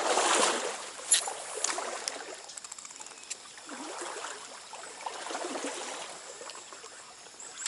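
Trout stream water running and splashing, with a few sharp clicks about a second in.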